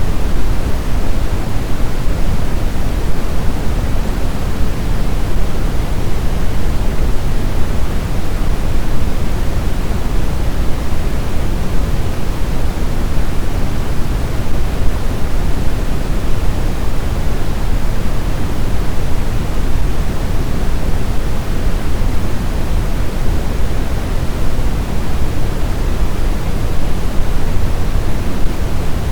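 Blizzard wind in a steady, deep rush of noise that holds even throughout, with no gusts, howls or breaks.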